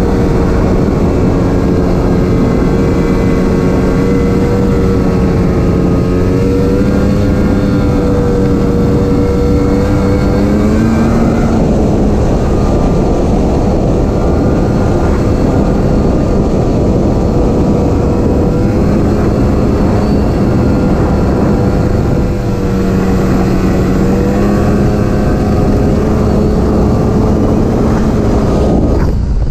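Arctic Cat snowmobile engine running steadily under way, its note wavering slightly and shifting about a third of the way in, over a constant rushing noise.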